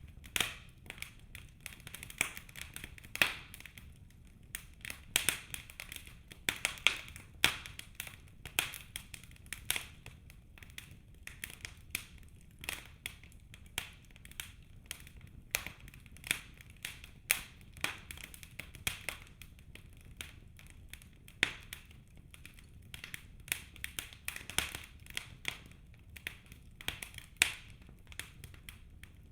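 Wood fire burning in a fireplace, crackling steadily with irregular sharp snaps and pops, a few of them much louder than the rest.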